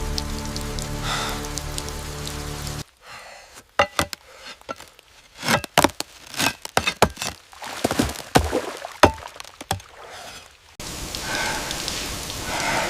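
Steady rain with a low sustained drone and a person's breathing, which cuts off abruptly a few seconds in. A stretch of sharp, irregular drips and knocks follows, then the rain and breathing return abruptly near the end.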